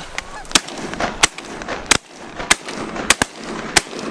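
Shotguns firing a rapid, uneven string of about seven sharp shots to finish off a crippled Canada goose.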